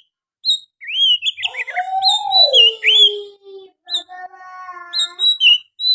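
Oriental magpie-robin singing a fast, varied song mixed with mimicked sooty-headed bulbul phrases. It starts a little under a second in with sharp repeated chirps and slurred whistles, including a lower whistle that slides down about two seconds in.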